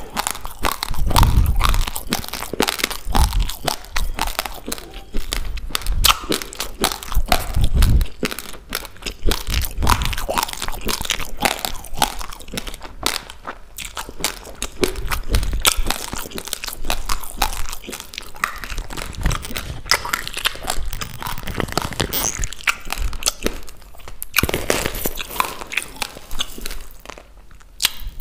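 Raw, uncooked rice grains crunched and chewed close to the microphone, a dense run of sharp little cracks.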